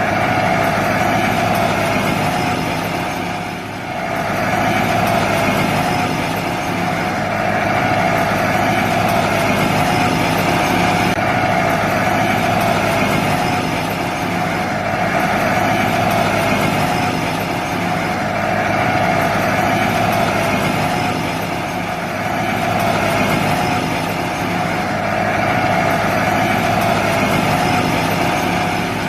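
Small motor of a handmade miniature tractor running steadily, swelling and easing a little every few seconds, with a brief dip about four seconds in.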